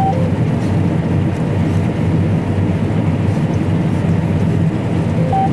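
Combine harvester running steadily while cutting soybeans, a constant machine drone. A short beep sounds at the start and again near the end.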